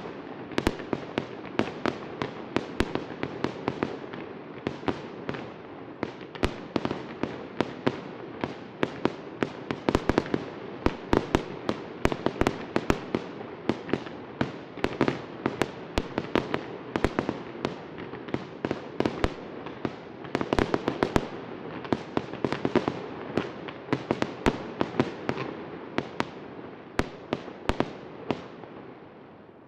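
Fireworks display: a rapid, unbroken string of sharp bangs and cracks over a steady crackle and rumble, dying away over the last couple of seconds.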